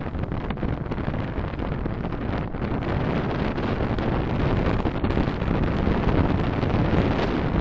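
Steady road and wind noise of a car on the move, picked up by a dashcam microphone, growing a little louder partway through.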